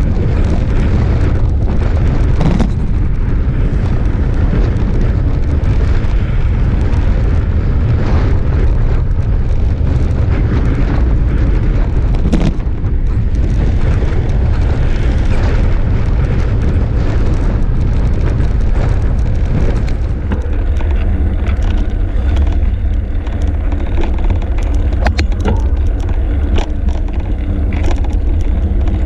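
Heavy wind buffeting on a GoPro microphone while cycling along a highway, mixed with road and traffic noise. About twenty seconds in the wind eases and a steady vehicle engine hum comes through, with scattered clicks and rattles.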